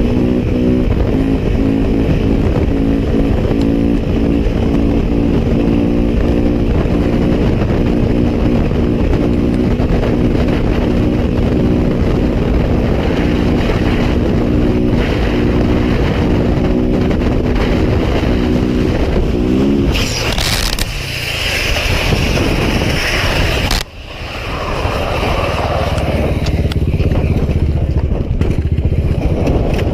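A motorcycle engine running at a steady speed, its pitch rising briefly about twenty seconds in. A loud, harsh noise follows for about four seconds and stops abruptly, and a dull rushing rumble comes after it.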